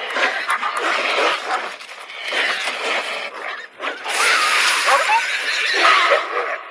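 A dog whining and giving short yelps over loud noise.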